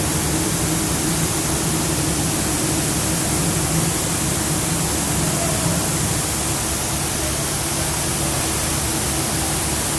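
Rice mill machinery running at the bagging stage: a loud, even machine noise with a steady low hum and a hiss, unbroken throughout.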